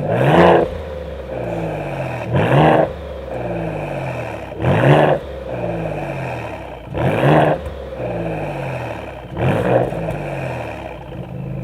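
Maserati GranTurismo Trofeo 3.0L V6 breathing through a stainless steel Supersprint sport exhaust with an H-pipe mid section. The engine idles and is blipped five times, about every two and a half seconds, each rev rising sharply and falling back to idle.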